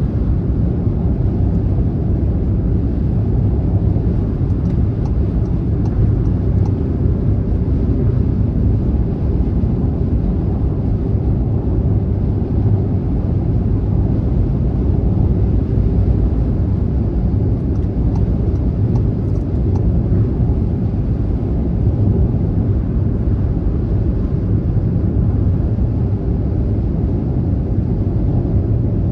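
Car driving along a motorway: steady, low road and tyre rumble at cruising speed, with no change in level.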